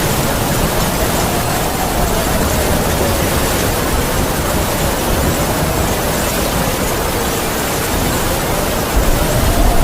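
Heavy rain falling steadily with a howling wind, its whistling pitch slowly rising and falling over a few seconds.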